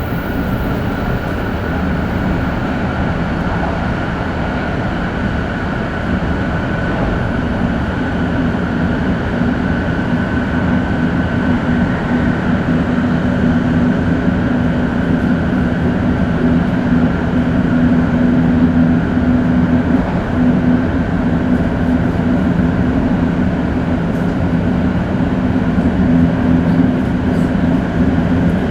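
Shinkansen 500 series train with Toshiba GTO-VVVF traction equipment running at speed: a steady rushing rumble with a steady low hum and a fainter high tone, growing slightly louder over the stretch.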